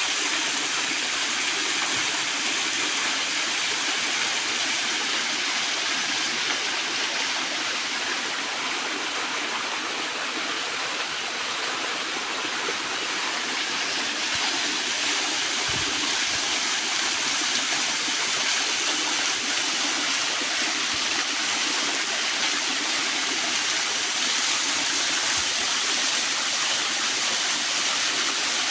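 Rushing water running steadily, as of a mountain stream or small waterfall.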